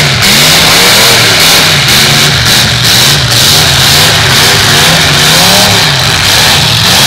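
Several demolition derby cars' engines revving up and down at once, their pitches rising and falling over one another, loud and harsh.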